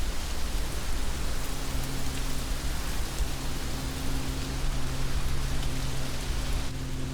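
Heavy rain falling steadily, an even hiss with no let-up. About a second in, a low steady hum joins it and carries on.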